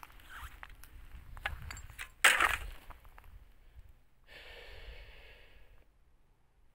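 Small clicks and knocks of scrap being handled and picked through, with one louder clatter and rustle a little over two seconds in and a brief scraping rustle about four seconds in.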